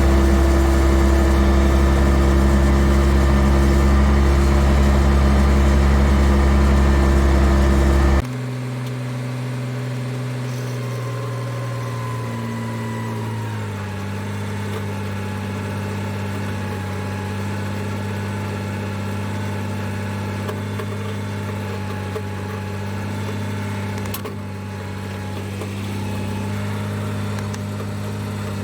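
Large diesel engine running steadily, loud at first, then abruptly quieter about eight seconds in and settling into a steady idle.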